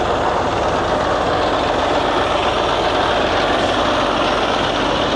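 Steady, unbroken drone of idling diesel truck engines.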